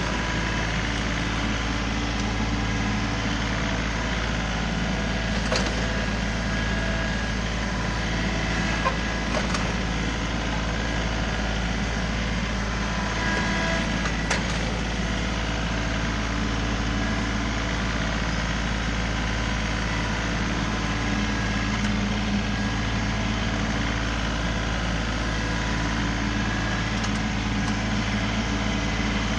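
A John Deere 3038E compact tractor's three-cylinder diesel engine runs steadily, with a few light knocks scattered through.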